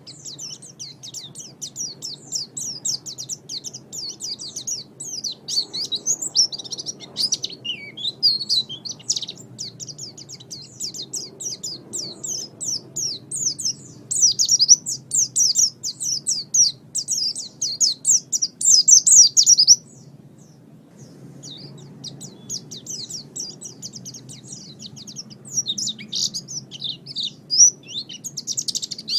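Pleci (white-eye) singing a fast, unbroken run of high, twittering chirps. The song stops for about a second and a half about two-thirds of the way through, then picks up again. A faint low hum lies underneath.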